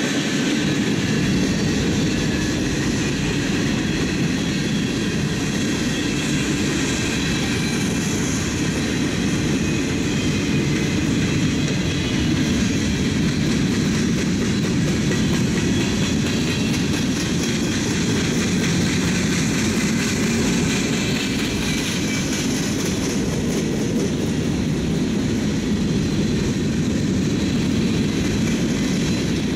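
Freight train cars, tank cars and covered hoppers, rolling past steadily: the noise of steel wheels on the rails, with faint high-pitched tones above it.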